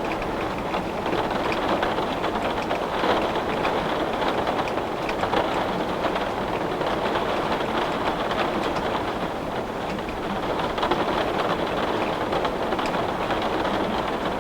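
Heavy rain striking a window pane: a steady, dense hiss of drops with faint individual taps through it.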